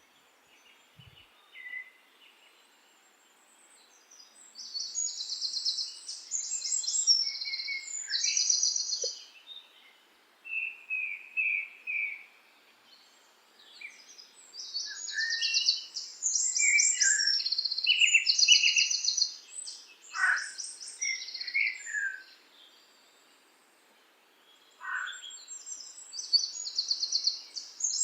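Songbirds singing: repeated high, rapid trilled phrases mixed with shorter chirps and a few downward-sweeping calls, with brief pauses between bursts of song.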